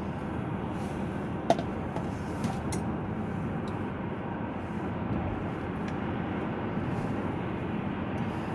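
Steady road and engine noise inside a moving car's cabin, with a sharp click about a second and a half in.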